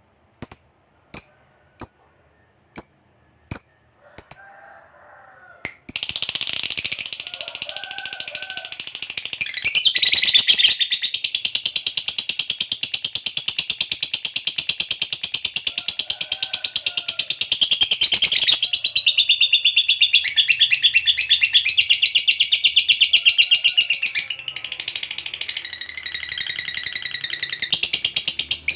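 Lovebird giving sharp, high chirps about twice a second, then from about six seconds in breaking into a long, unbroken, very fast rattling trill, the prized 'ngekek panjang' song, that carries on for more than twenty seconds.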